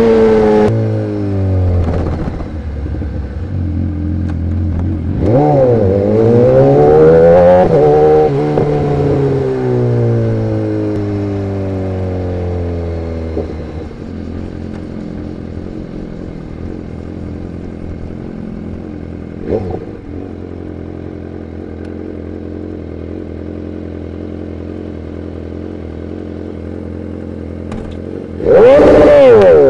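BMW S1000RR inline-four motorcycle engine through an Arrow Pro exhaust: it drops off from high revs at the start, rises and falls a couple of times, then runs steadily at low revs for much of the time, and near the end suddenly revs hard and loud.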